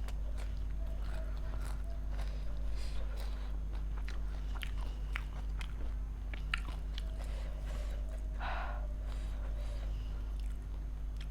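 Chewing and crunching golgappa: crisp puri shells cracking in the mouth, with a few sharp crunches in the middle and a short rushing breath about eight and a half seconds in. A steady low hum runs underneath.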